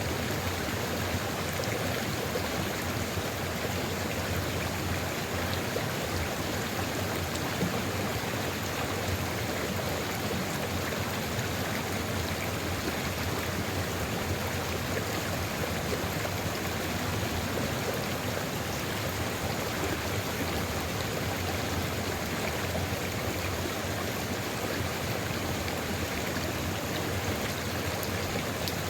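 A river flowing steadily over rocks, an even rushing and babbling with no pauses or single events.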